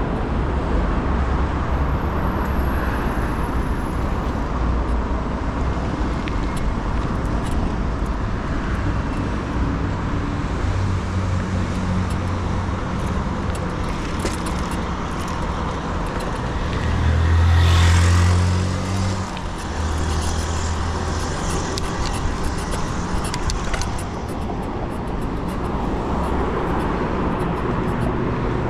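Road traffic passing close by on a busy avenue: a steady rumble of motor vehicles and tyre noise. About two-thirds of the way through, a heavy vehicle's deep engine hum swells up loudly as it passes and then fades.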